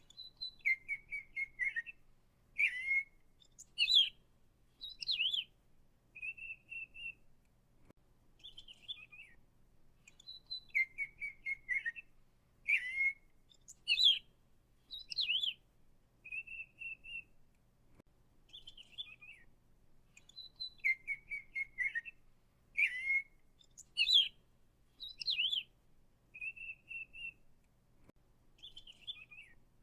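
Songbird singing a varied phrase of high chirps, short trills, a steady whistled note and descending slurs; the same phrase repeats identically about every ten seconds, as a looped recording does.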